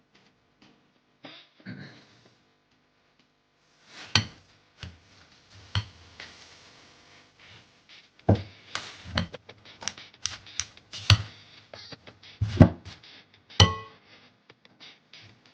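Kitchen prep of sweet potato at a counter: irregular knocks and clicks of a knife against a cutting board, sparse at first and more frequent in the second half.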